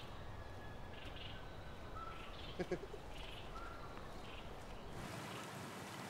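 Faint rural outdoor ambience with scattered short bird chirps. A brief double sound about two and a half seconds in, and a change in the background hiss near the end.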